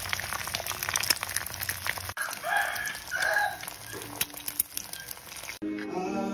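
Egg frying in hot oil in a steel pan, sizzling with rapid sharp crackles. About two seconds in, pancakes fry beside an egg and two short calls sound over the sizzle; music begins near the end.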